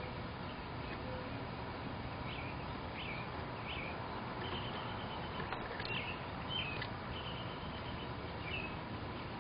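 Small birds calling several times with short high chirps and a few quick twittering runs, over a steady outdoor hiss.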